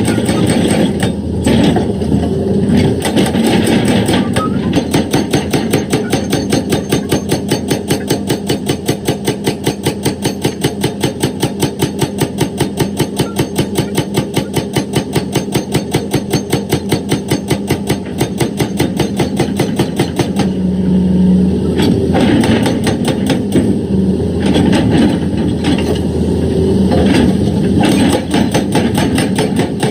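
Excavator-mounted hydraulic rock breaker hammering on stone in a fast, even rhythm of about eight blows a second, over the excavator's running engine. The hammering stops about two-thirds of the way through, leaving the engine and irregular knocks.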